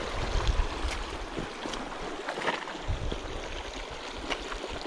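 Small mountain creek rushing steadily over rocks. Low thumps on the microphone come near the start, around the middle and near the end, with a few light clicks.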